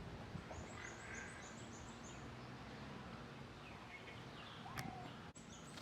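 Faint calls of small birds in tropical vegetation: a quick run of about eight thin, very high notes, with softer chirps around it.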